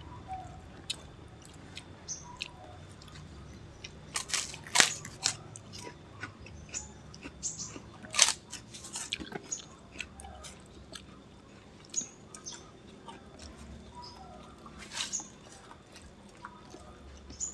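A person chewing and eating spiced bamboo-cooked quail, with scattered sharp crunches and clicks, the loudest about 5 and 8 seconds in.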